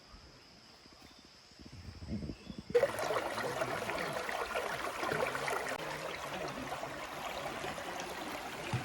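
A faint, steady high insect whine at first. About three seconds in, the sound of a flowing forest stream starts suddenly and runs on steadily.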